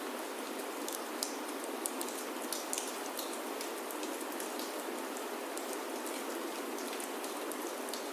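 Steady rain falling on a wooden chalet roof, a constant hiss with frequent sharp drop ticks scattered through it.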